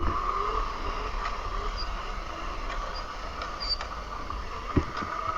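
Razor MX350 electric dirt bike, converted to 48 volts, under way: its motor and chain drive make a steady high whine over a low rumble. There is a brief knock about three-quarters of the way through.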